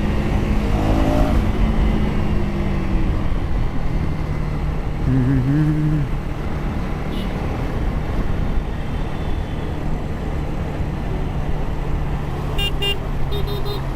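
KTM Duke 250 single-cylinder engine running steadily on the move, with tyre and traffic noise. A vehicle horn beeps twice near the end.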